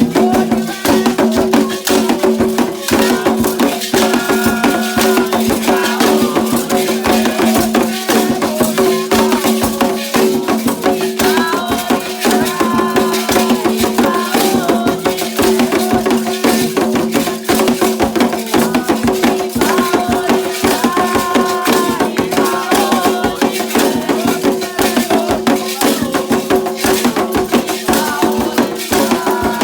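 Candomblé ritual music for Xangô: rattles and fast, dense percussion played continuously, with voices singing in phrases that come and go.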